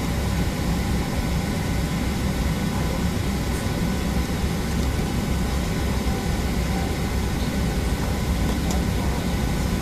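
Steady cabin noise inside a Boeing 737-800 airliner: an even, low hum with a few faint steady whining tones above it.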